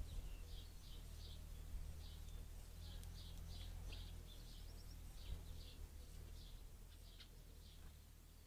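Small songbirds chirping, short high chirps repeated a few times a second and thinning out after about six seconds, over the trail camera's low steady hum.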